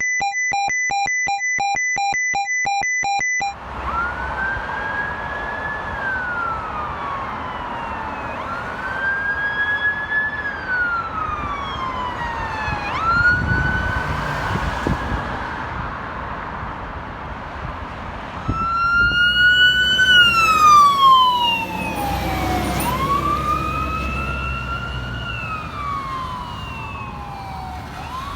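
Emergency vehicle electronic sirens. For the first few seconds there is a rapid pulsing tone, then a slow wail rising and falling every few seconds. About two-thirds of the way in a second, louder wailing siren joins, with the rumble of a passing heavy vehicle.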